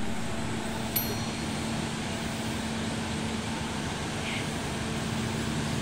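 Steady rumble and hum of a passenger train, with a constant low drone and a single sharp click about a second in.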